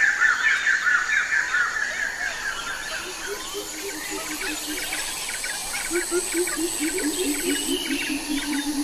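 Birds calling: a busy chatter of quick high chirps at first, then a low, rapidly repeated call that starts about three seconds in and comes back stronger near the end.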